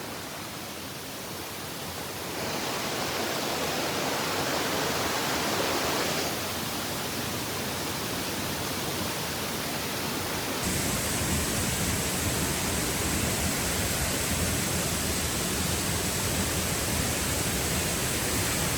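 Waterfall's water rushing in a steady noise, its loudness and tone stepping abruptly a few times, about 2, 6 and 11 seconds in.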